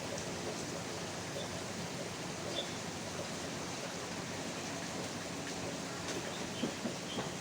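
Steady rain falling, an even hiss, with a couple of sharper taps near the end.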